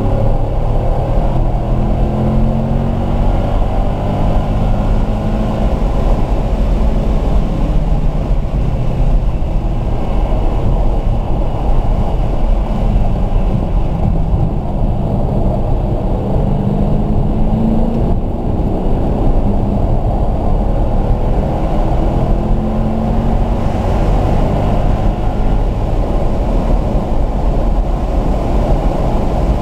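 Car engine driven hard on a race track, heard from inside the cabin. The engine note rises and falls several times as the car speeds up and slows for corners. Road and wind noise run underneath.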